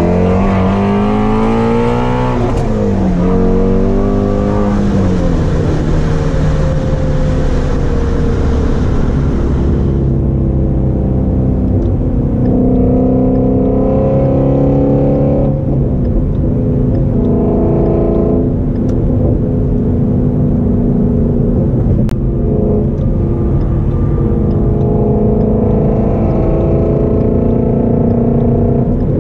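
Shelby GT350's 5.2-litre flat-plane-crank V8, heard from inside the cabin, accelerating with a rising pitch, with a gear change about two and a half seconds in and a second pull. About ten seconds in it eases off into highway cruising, the engine note rising and falling gently under light throttle.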